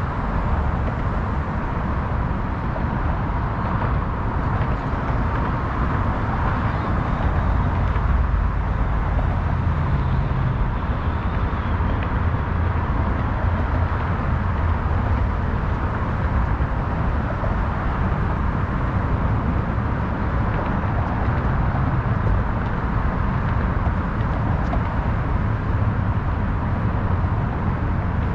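Steady city ambience: a continuous low rumble of passing road traffic, with no distinct events standing out.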